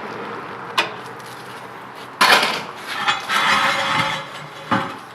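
A sharp click, then several loud scraping, rushing bursts and a knock from hands working at a Gravely L walk-behind tractor as it is readied to start. The engine is not running.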